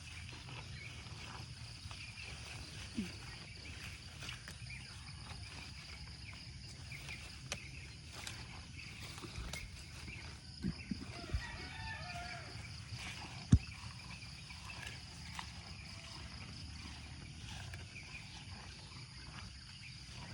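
Outdoor rural ambience: insects chirring steadily over a low rumble, broken by a few sharp knocks, the loudest about two-thirds of the way through.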